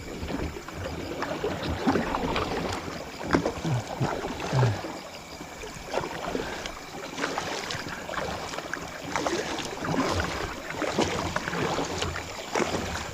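Kayak being paddled upstream through moving water: irregular splashes of paddle strokes over a steady wash of water.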